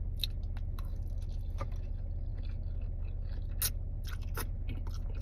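Close-up chewing of food, with scattered small crunchy clicks and mouth sounds, over a steady low hum.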